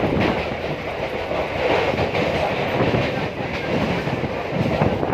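A train running past on the track, its wheels clattering over the rail joints in a continuous rumble.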